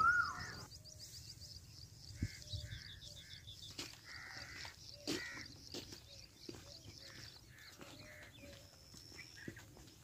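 Birds calling: a sharp rising whistled note right at the start, then a string of short caws, some coming about three a second, over faint high chirping.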